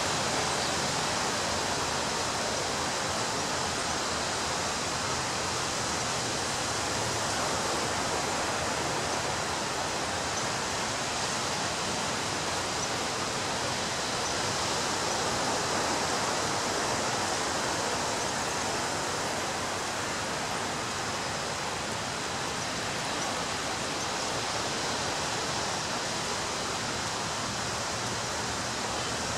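Ocean surf washing onto a beach: a continuous rushing wash of breaking waves, swelling and easing gently.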